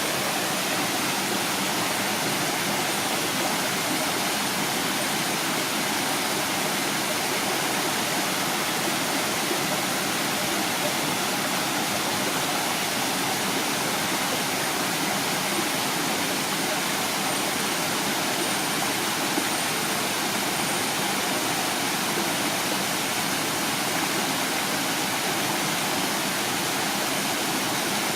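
Waterfall: water falling and rushing over rocks in a steady, unbroken roar.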